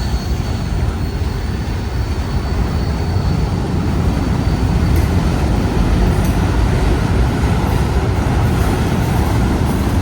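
Freight train cars rolling past, with a steady heavy rumble of wheels on the rails. A thin high wheel squeal fades out in the first few seconds.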